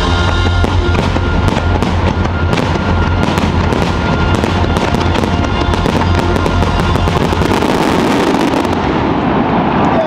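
Aerial fireworks going off in a dense, rapid barrage of bangs and crackles over a deep rumble, with show music underneath. The crackling thins out about nine seconds in.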